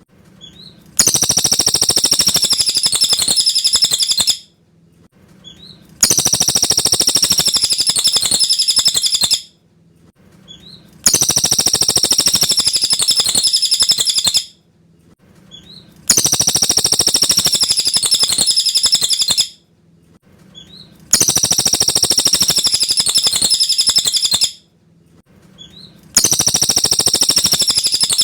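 Cililin bird song: a high, rapid chattering phrase about three seconds long, repeated identically about every five seconds, six times, as a looped masteran track for training white-rumped shamas.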